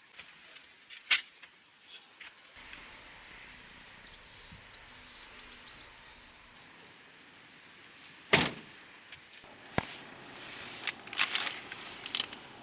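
A few sharp knocks and clicks over a faint steady hiss, the loudest knock about two-thirds of the way through and a quick cluster of clatters near the end.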